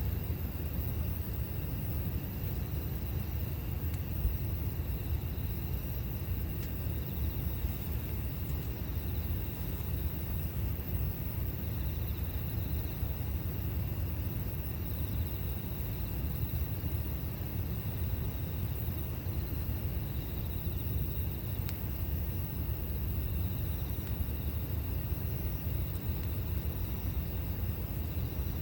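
Campfire burning: a steady low rumble with an occasional faint pop from the wood.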